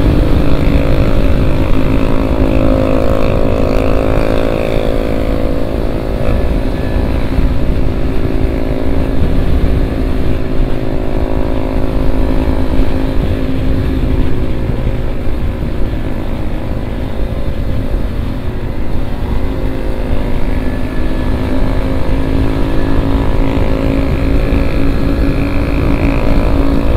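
KTM Duke 250 single-cylinder engine and exhaust running at cruising speed, with wind rushing over the microphone. The engine note holds fairly steady, rising and falling slightly.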